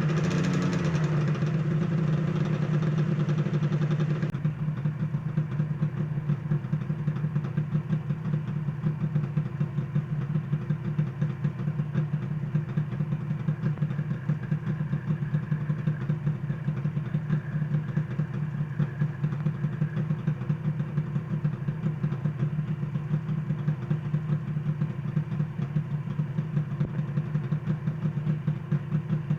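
Suzuki RG250Γ two-stroke parallel-twin engine idling with a pulsing beat, run back to life after 26 years laid up. It sounds brighter for the first four seconds, then changes abruptly to a duller, steady idle.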